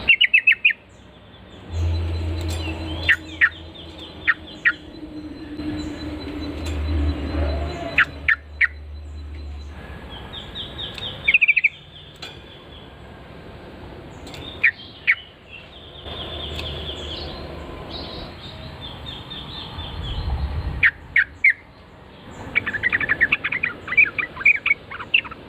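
Yellow-vented bulbul (trucukan) calls: short bursts of quick, bubbly chirps at intervals, with a dense run of chirps near the end. A low rumble sits under the first half.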